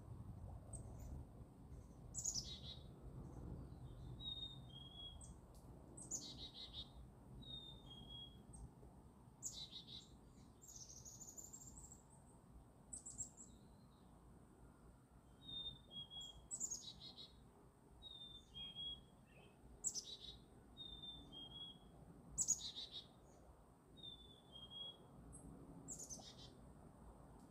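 Songbirds calling: a high call sweeping downward repeats every two to three seconds, with short two-note chirps in between, over a faint low outdoor rumble.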